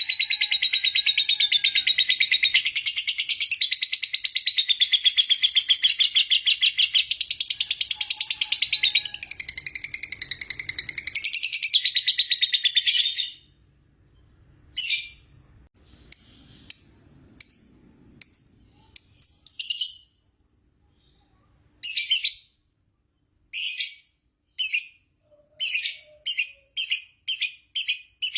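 Lovebird 'ngekek': a long, unbroken, rapid high-pitched chattering trill that stops suddenly about halfway through. After a short pause it starts again in short bursts, which come quicker and closer together near the end.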